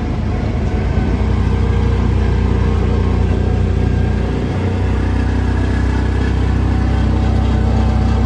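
Kawasaki Mule utility vehicle's engine running steadily as it drives along, a constant low drone.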